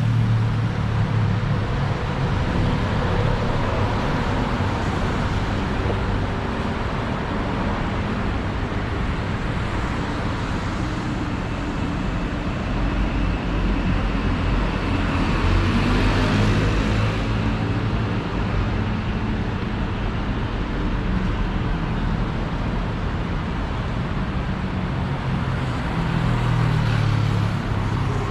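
Street traffic: a steady rumble of cars and other road vehicles running past, swelling as vehicles pass about halfway through and again near the end.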